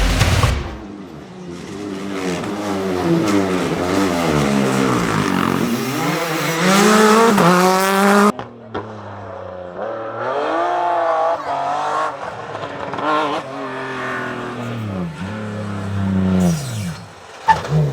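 Rally car engines accelerating and lifting off, pitch climbing and dropping again and again through gear changes. The sound cuts abruptly about eight seconds in and then continues with another stretch of revving.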